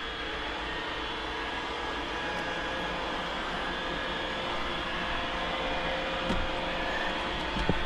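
Two Roomba robot vacuums, an E5 and an 805, running together on carpet: a steady motor hum and whine, with a couple of light knocks near the end.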